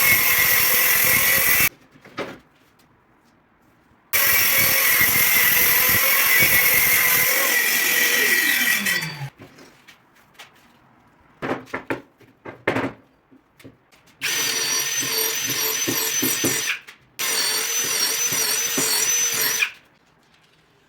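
Electric power tool run in four bursts. The motor audibly spins down after the second burst, a few short knocks follow, and the last two bursts carry a steady high whine.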